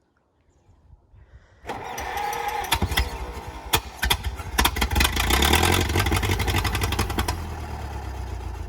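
1934 Allis-Chalmers Model M crawler tractor's engine being started: it catches about two seconds in, runs roughly with sharp irregular pops and knocks, then settles into a steadier run that grows louder.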